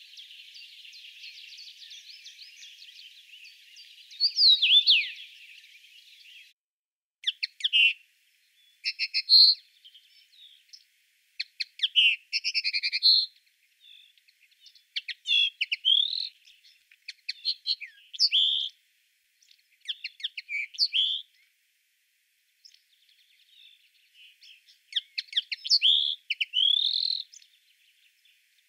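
A common rosefinch sings its short whistled phrase once, about four seconds in. After a brief break, a common linnet sings a long run of quick, varied twittering phrases.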